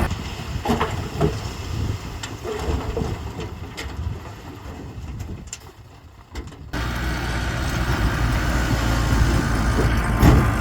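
A low, uneven machinery rumble with scattered clicks and knocks, then about two-thirds of the way in a heavy diesel engine running steadily cuts in abruptly and stays loud.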